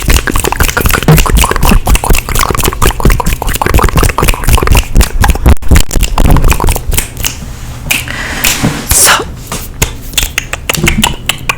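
Dense, rapid clicking and crackling right at the microphone, with low thumps underneath and a short hiss about eight seconds in.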